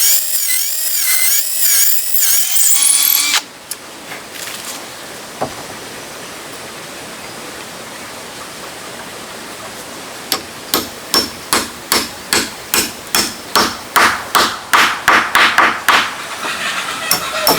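A power tool runs with a wavering pitch and stops about three seconds in. From about ten seconds in, a hammer strikes wood in a steady rhythm of about two to three blows a second, growing louder, as in nailing timber for a coop.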